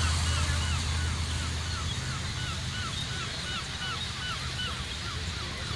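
Motorcycle engines idling with a low, steady hum, a little louder at the start. Over them comes a short, high chirp that repeats evenly about three times a second.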